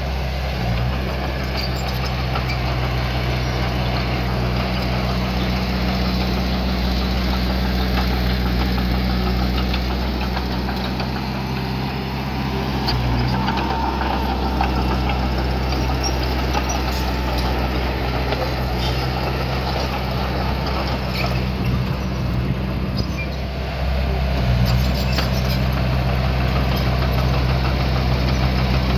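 Diesel engine of small earthmoving machinery running steadily, its note shifting about halfway through and growing louder near the end.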